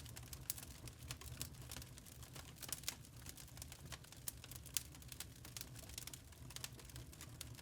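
Wood fire in a fireplace crackling: quick, irregular pops and snaps, a few sharper ones standing out, over a soft low rumble of the flames.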